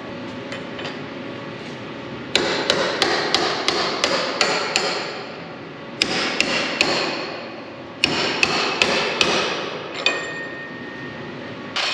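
Hammer blows on a truck's steel spring hanger bolt, driving the freed bolt out of its sleeve. The strikes come in three quick runs of about four a second, the first and longest beginning about two seconds in, with a single strike near the end, and each one leaves a short metallic ring.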